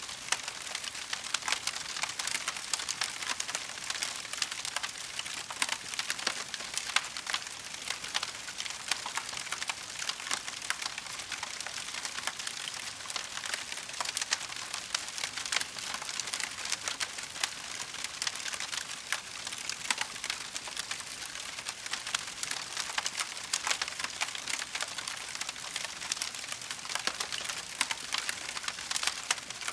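Wood fire in a fireplace crackling steadily: a dense run of small pops and snaps over a soft hiss, with an occasional louder pop.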